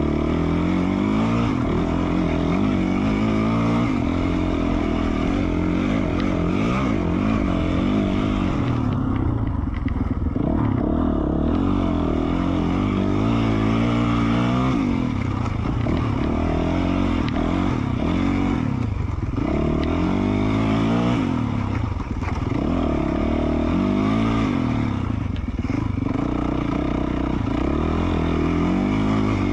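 2020 Yamaha YZ450F dirt bike's single-cylinder four-stroke engine, through an FMF Q4 slip-on exhaust, riding along with its pitch rising and falling again and again as the throttle is worked. It eases off briefly about nine seconds in.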